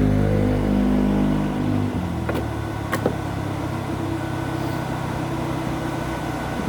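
Engine of a firewood splitting machine running steadily, its note dropping about two seconds in, with two sharp cracks shortly after.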